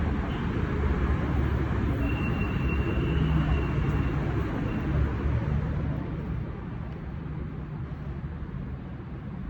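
Steady road traffic rumble, with a thin high tone from about two seconds in that lasts a couple of seconds. The rumble eases a little after about six seconds.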